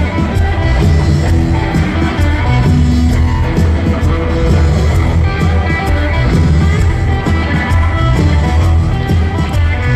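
Live rock band playing an instrumental stretch of the song: electric guitar over bass and a steady drum beat, loud throughout, with no singing.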